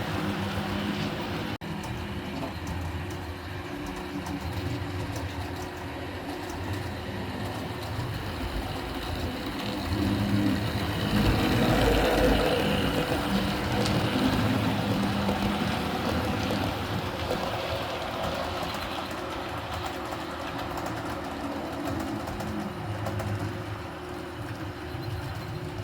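A train running along rails in a steady rumble that builds to its loudest about ten to fifteen seconds in as it passes, then eases off.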